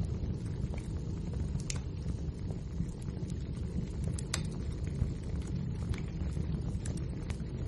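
Wood fire burning in a fireplace: a steady low rumble with irregular crackles and pops from the burning logs.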